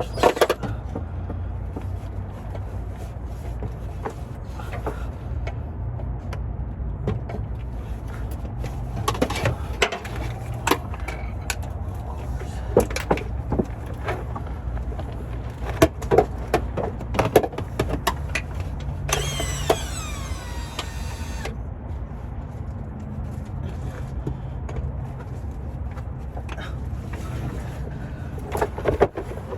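Tools knocking and clanking on metal under a car, working to pull a transmission, over a steady low rumble. About two-thirds through, a high whine falls in pitch for about two seconds.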